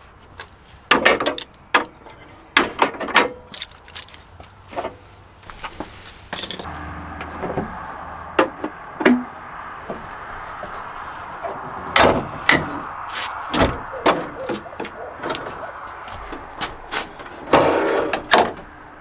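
A series of sharp knocks, clicks and clunks from hands-on work around the vehicle. A steady background noise comes in about six seconds in, and a louder clunk comes near the end.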